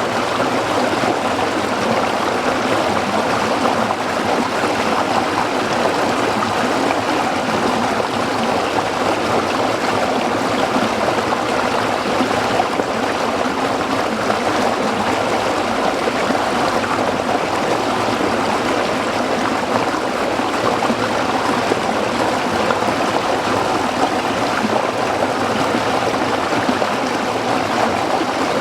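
A small stream flowing over rocks, a steady babbling and trickling of water.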